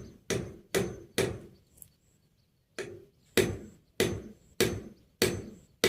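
Hammer driving a nail into wood: a quick run of sharp blows, a pause of about a second and a half, then six more evenly spaced blows, each ringing briefly.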